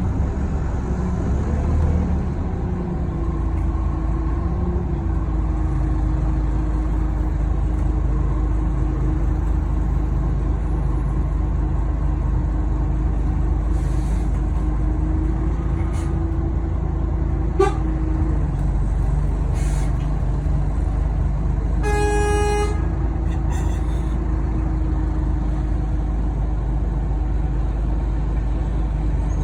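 Scania OmniCity bus running on the move, heard from inside: a steady engine drone with a constant whine over it. About 22 seconds in, a vehicle horn toots once, briefly.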